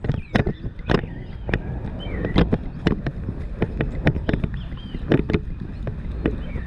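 A ridden horse's hoofbeats, knocking about twice a second, under a steady low rumble of wind on a helmet-mounted action camera.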